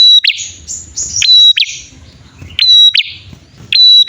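Prenjak, male and female, calling loudly back and forth: sharp whistled notes that sweep up and hold, alternating with short buzzy rattles, repeated about every second and a half.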